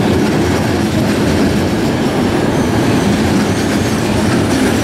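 Passenger train coaches rolling past along a station platform, with a steady, loud running noise of wheels on the rails.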